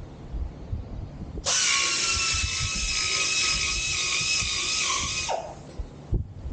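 A small high-speed power tool runs with a steady high-pitched whine for about four seconds, starting and stopping abruptly, probably trimming the switch panel's cut-out. Low knocks and handling noise come before and after.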